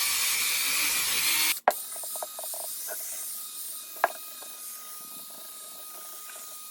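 Small power tool with a buffing wheel running at low speed, a steady whine that cuts off suddenly about a second and a half in. Then quieter scattered clicks and taps.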